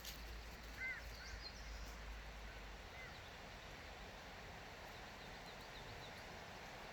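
Small forest birds calling: a few short whistled chirps about a second in and again around three seconds, then a quick run of high chirps about five seconds in, over a faint steady hiss of forest ambience.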